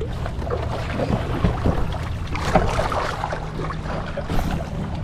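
Kayak paddles dipping and splashing in the water, with wind rumbling on the microphone.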